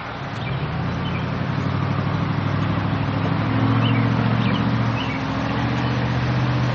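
A motor vehicle's engine running, growing louder over the first few seconds and then holding steady.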